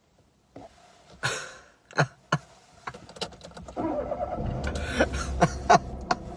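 Clicks and knocks inside a car, then the car's engine starting about four seconds in and running low and steady.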